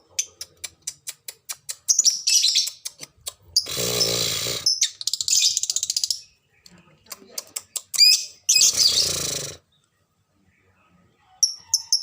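Lovebirds calling: rapid sharp chirps mixed with two longer harsh screeches about four and nine seconds in, then a short lull near the end.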